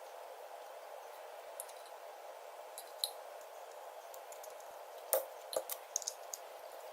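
A few light clicks and taps of small objects being handled, over a steady background hum; the clicks come singly about three seconds in, then in a quick cluster near the end.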